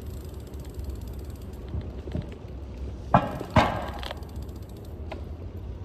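Steady low wind rumble on the microphone of a moving bike, with two sharp rattling clunks about half a second apart a little past the middle.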